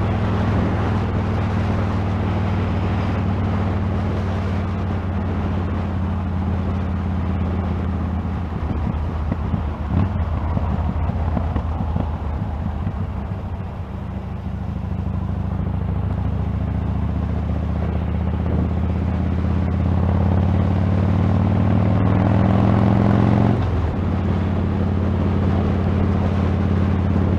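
Motorcycle engine running under way, heard through a helmet camera's external microphone with wind noise over it. The engine note sags about halfway through, then climbs again, and shifts abruptly near the end.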